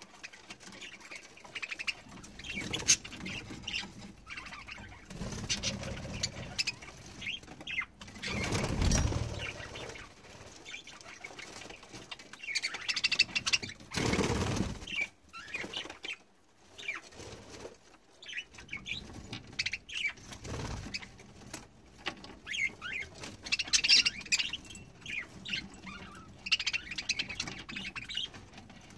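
Budgerigars chirping and fluttering their wings as they bathe, with short high chirps throughout and louder bursts of wing flapping about a third and halfway through.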